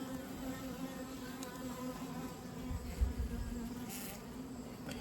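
Honeybees buzzing in a steady hum over an open hive, with a low bump about three seconds in.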